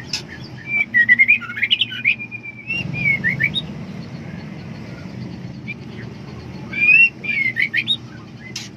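Female white-rumped shama (murai batu) calling in two bouts of quick whistled notes that slide up and down, with a few sharp clicks, over a steady low hum. It is the call of a female in heat seeking a male.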